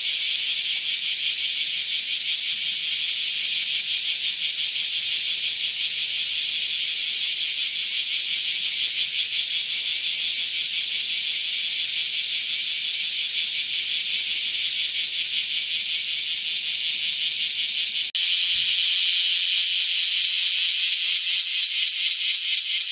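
Cicada calling: a loud, continuous, high-pitched buzz made of rapid pulses. About 18 seconds in there is a brief click, and the buzz carries on with a slightly different texture.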